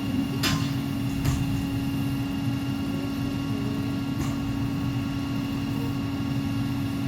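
Steady buzzing hum of honey bees around an opened hive, with three sharp clicks or taps, the first two close together in the first second and one about four seconds in.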